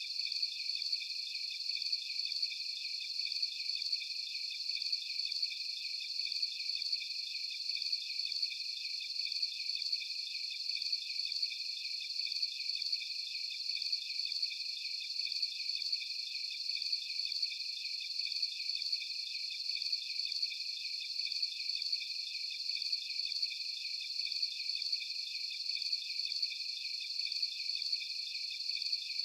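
Dense night chorus of crickets: a steady, high-pitched trilling chirr made of several overlapping pitches, pulsing rapidly and without a break.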